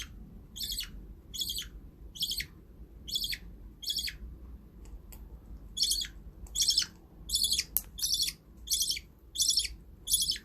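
Budgerigar calling: short, high chirps repeated evenly about every two-thirds of a second, with a pause of about a second and a half near the middle.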